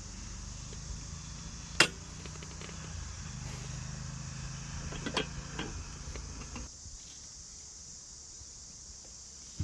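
Steady low hum of a single gas burner under a hot sandwich maker, which stops suddenly about seven seconds in. There is a loud sharp metal clack about two seconds in and a couple of lighter clicks around five seconds, over a steady high hiss.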